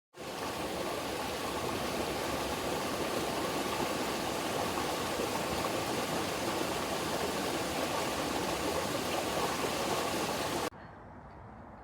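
Rushing water of a mountain stream, a steady even rush that cuts off abruptly near the end, leaving a much quieter background.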